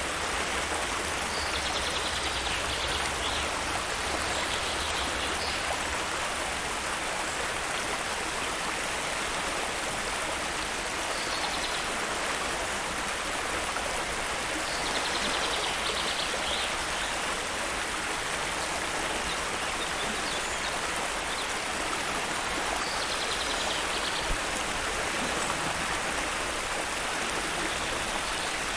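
Stream water flowing with a steady rushing sound. A bird's short, high song phrases come every few seconds.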